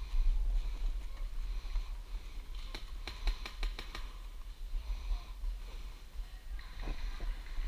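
A quick run of about eight sharp clicks in a second and a half, airsoft gun shots, with two or three more near the end, over a steady low rumble of wind and handling on the microphone.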